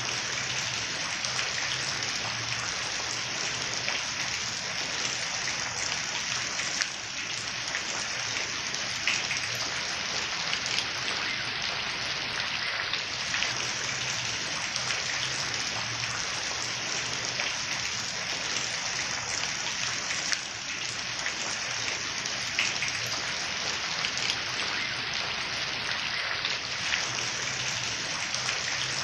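Steady rain falling, a dense hiss made up of many individual drops pattering on leaves, with a faint low hum beneath it.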